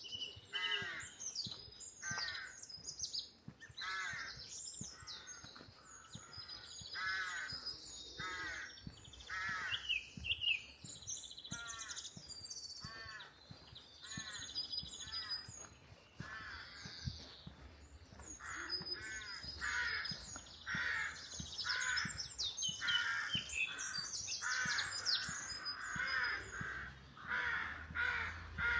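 Crows cawing over and over, harsh calls about once a second that crowd closer together near the end, with small songbirds chirping and trilling higher up.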